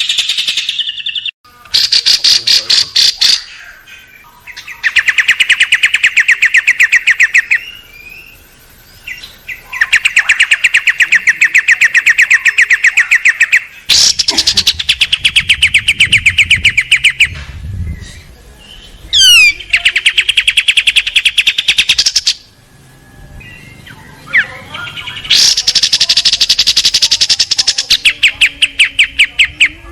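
Small songbird giving loud, rapid-fire harsh trills: about six bursts of fast repeated notes, each two to four seconds long, with short pauses between them, and one quick whistled glide near the middle.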